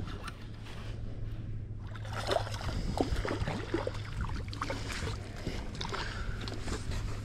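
Water splashing and sloshing at a kayak's side, with irregular small knocks and clicks that grow busier about two seconds in, over a steady low hum.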